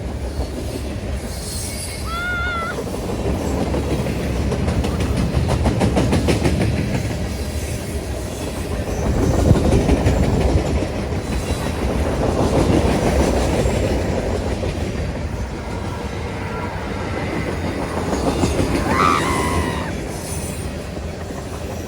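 Freight train rolling past, its wheels clacking over the rail joints over a steady rumble that swells and fades, with a couple of brief high squeals.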